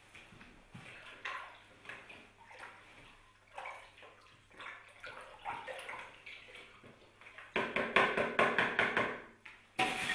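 Water splashing and trickling in uneven surges, louder for about two seconds near the end.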